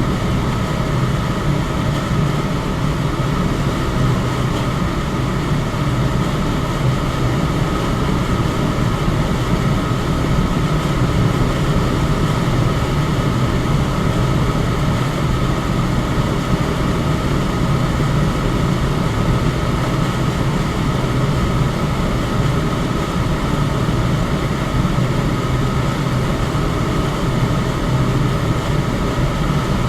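Electric fan running steadily: an even rush of air with a low hum and a faint steady whine above it.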